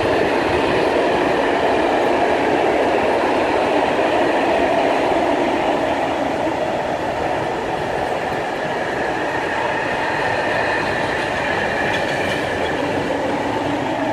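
Freight train wagons rolling past, a steady loud rumble and rattle of wheels on rail with a faint high ringing tone above it.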